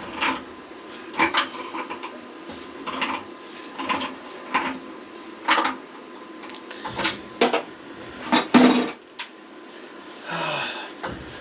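Irregular clanks and knocks, about one a second, of hand tools and parts worked on the old water heater's plumbing fittings, with two louder knocks a little past the middle and a short scraping rasp near the end.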